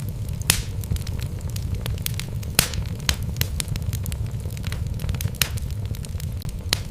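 Wood fire burning in a fireplace: a steady low rumble of flame under irregular sharp crackles and pops from the logs, a few of them louder than the rest.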